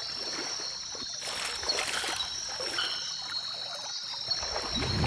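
Water gently splashing and trickling at the river's edge, over a steady high-pitched drone.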